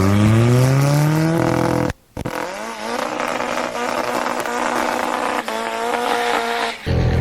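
Sports car engines at full throttle on a drag strip. First an engine accelerates hard, its pitch climbing steeply. After a brief cut about two seconds in, an engine holds a high, steady note until it cuts off abruptly near the end.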